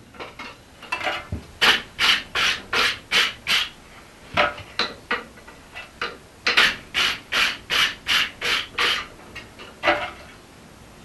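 Repeated scraping strokes of a hand tool across the steel of a forged axe head, in runs of about two to three strokes a second with short pauses between runs, ending with one last stroke near the end.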